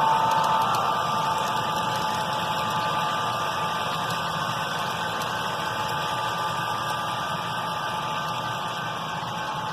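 Model train running on the track: a steady mechanical whir with a faint, even whine, slowly getting quieter.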